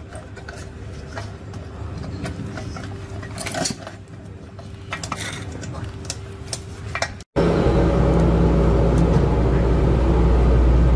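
Light metal clinks and taps, as of small metal parts and tools being handled, over a faint steady hum. After an abrupt cut about two-thirds of the way through, a much louder steady low mechanical drone takes over.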